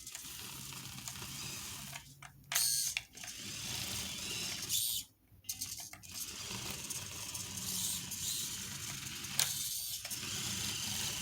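Gear whir of a 1:32-scale RC John Deere 7290R tractor's small electric drive motor, pulling a corrugator. It stops briefly twice, about two and five seconds in.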